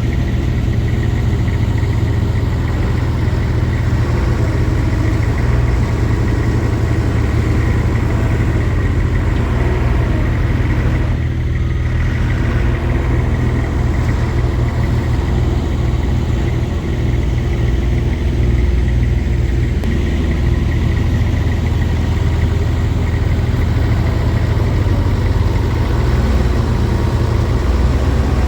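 A heavy diesel engine running steadily at a low, even speed.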